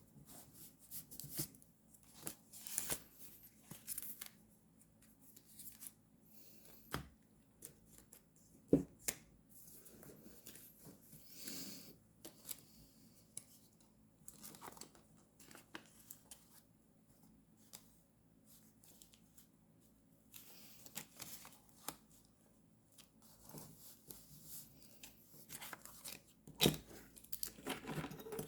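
Paper and stickers being handled, torn and cut by hand for journal decorating: short rustles and snips at irregular intervals, with a couple of sharp taps.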